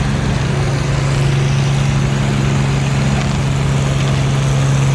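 Antique tractor engine running steadily under heavy load during a tractor pull, its loud note holding an even pitch.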